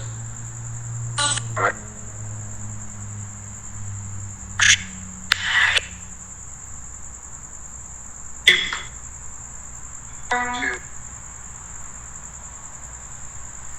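Crickets trilling in a steady, high, continuous note, broken a handful of times by brief louder sounds. A low hum fades out in the first few seconds.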